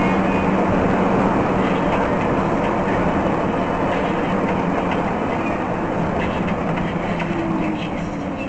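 Steady rumble of a moving vehicle: a low, even hum with faint regular clicking, like wheels running over joints.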